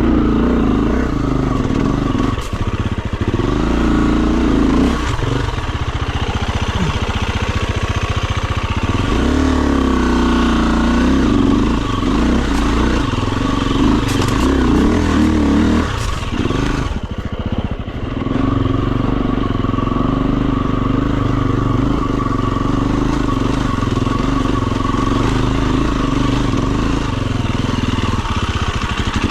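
Enduro dirt bike engine running under load, its pitch rising and falling as the throttle opens and closes, with a brief easing off past the middle.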